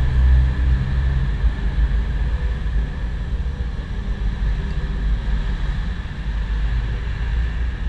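A steady low rumble with a faint high hum running through it, with no distinct clicks or knocks.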